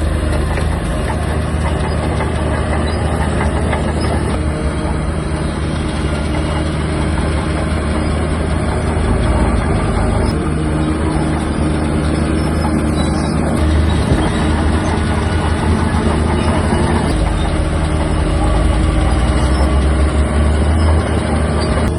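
Shantui DH17-C3 crawler bulldozer working, its diesel engine running steadily with mechanical clatter, getting a little louder at times.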